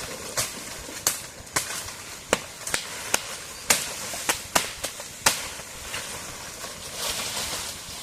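A series of sharp, irregular cracks or knocks, about a dozen in eight seconds, with a soft hiss near the end.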